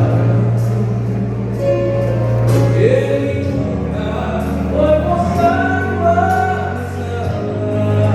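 A gospel vocal group singing over band accompaniment, with sustained bass notes beneath the voices and light cymbal strokes above.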